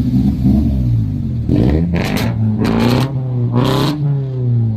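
Car engine running and being revved in several quick blips, its pitch rising and falling, from about a second and a half in.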